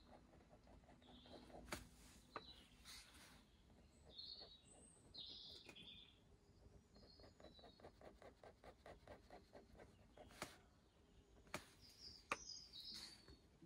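Faint chirps of small birds now and then over near silence, with a few sharp clicks and, in the middle, a run of quick, even faint ticks.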